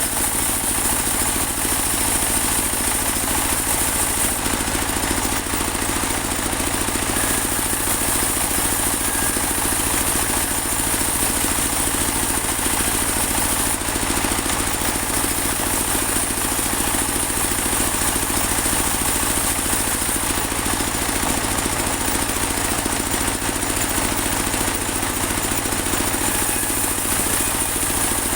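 Engine of a portable band sawmill running steadily, with an even, unbroken machine sound.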